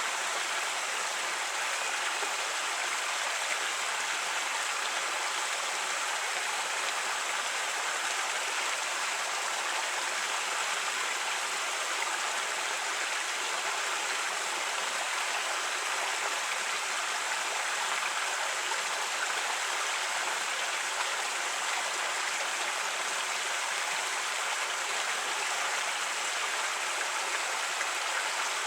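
Creek water rushing and burbling over rocks, a steady, even flow.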